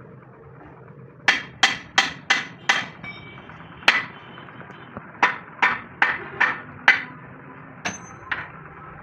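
Hammer striking steel, each blow ringing briefly: a quick run of five blows, a single blow, another run of five, then two more near the end.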